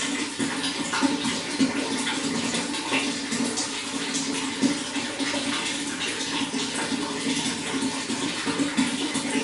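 Running water flowing steadily, with small irregular splashes throughout.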